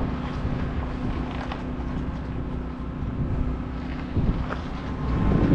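Wind buffeting the microphone in low rumbling gusts over a steady mechanical hum, with no break throughout.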